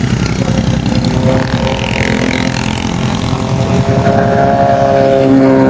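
Motorcycle engine running at a steady idle, growing a little louder toward the end.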